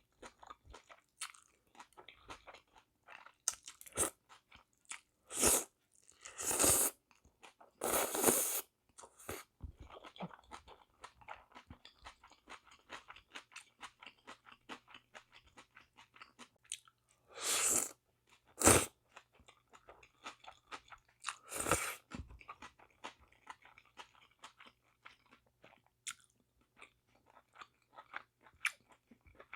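Close-miked eating sounds of spicy bibim noodles with sea snails: steady wet chewing and lip smacks, broken by a few louder bursts of noodle slurping, twice in the first ten seconds and twice more later.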